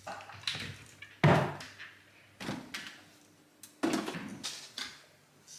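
A few separate knocks and thuds from handling things in a kitchen, the loudest about a second in. Near the end a refrigerator door is pulled open.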